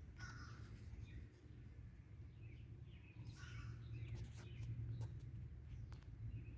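Faint bird chirps over a steady low hum that swells about halfway through.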